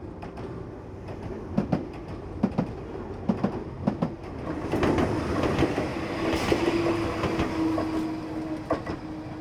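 Train passing on the rails, its wheels clicking over the rail joints in quick pairs about once a second, then a louder rush with a steady humming tone in the second half.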